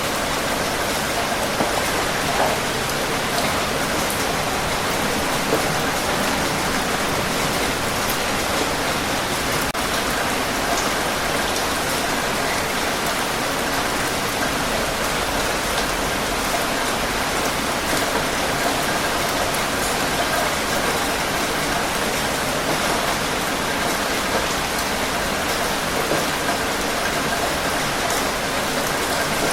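Steady rain falling, a dense even hiss with faint scattered drop ticks on a surface.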